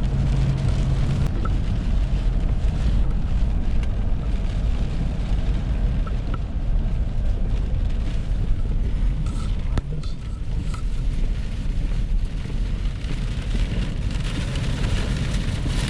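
Strong gusting storm wind with rain, a steady low rushing noise with a few faint knocks; the gusts are measured at about 60–70 mph.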